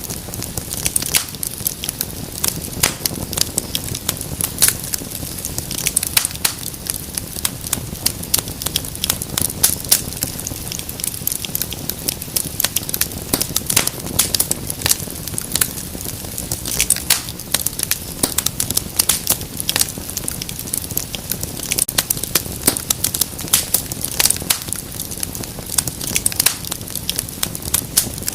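Wood fire crackling steadily: many irregular sharp snaps and pops over a soft low rumble of burning.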